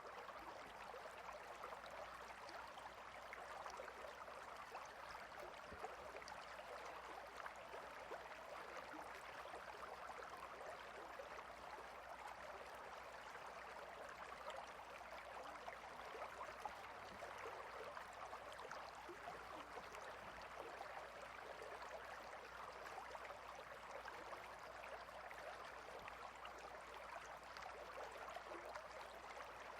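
Clear river water flowing and splashing between rocks: a faint, steady babble with no breaks.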